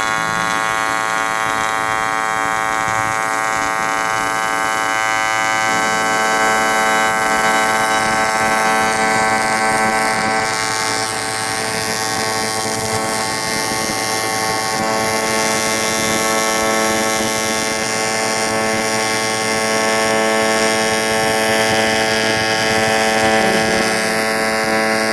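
Electric welder running, with a steady, unbroken electric buzz full of evenly spaced overtones and a hiss above it.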